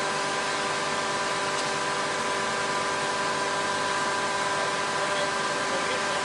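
Steady machinery noise: an even hiss overlaid with several constant humming tones that do not change.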